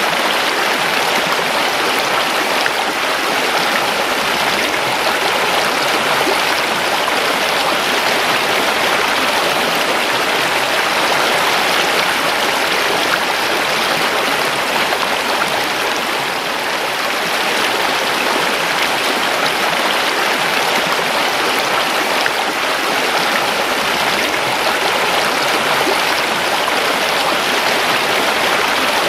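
River water rushing and splashing over rocks, a steady, even flow with no change.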